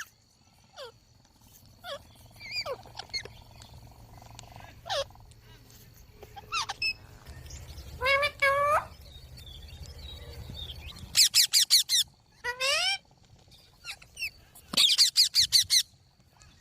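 Rose-ringed parakeet (Indian green parrot) calling: scattered shrill, sweeping calls, then two quick runs of loud, sharp screeches, one about eleven seconds in and another near the end.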